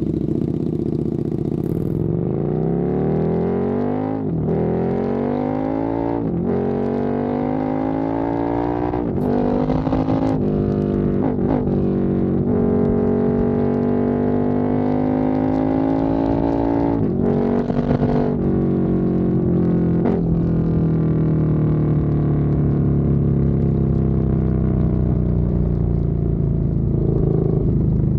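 KTM 1290 Super Duke R's V-twin engine pulling hard through the gears, its pitch climbing and then dropping sharply at each of several upshifts. In the last several seconds it settles into a steadier note that slowly falls.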